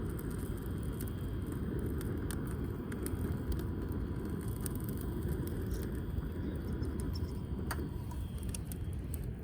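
Damp firewood burning in a wood grill, crackling with scattered sharp pops over a steady low rumble.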